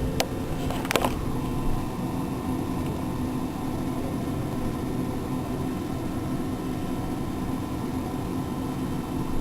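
Steady machine hum over a hiss, with two short clicks within the first second.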